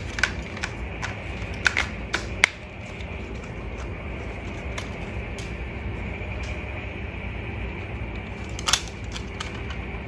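Steady hum of a remote-control toy fire truck running, with sharp plastic clicks and taps: several in the first couple of seconds and one more near the end.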